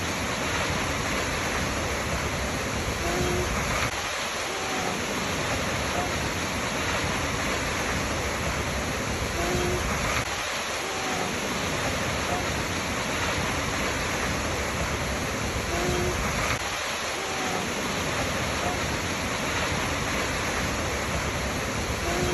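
Waterfall: a steady rush of falling water. The same few seconds of sound repeat about every six seconds, with short faint tones recurring in each repeat.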